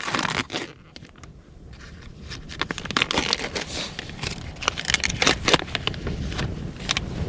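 Irregular crackling, crinkling and scraping handling noises, with a short burst at the start and a denser, louder stretch from about two and a half seconds in.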